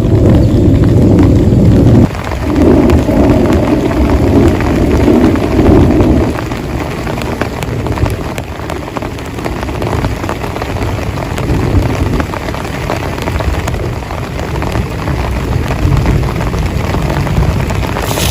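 Heavy rain pouring down in a thunderstorm. Thunder rumbles loudly through the first six seconds, dipping briefly about two seconds in, then fades into the steady rush of the rain.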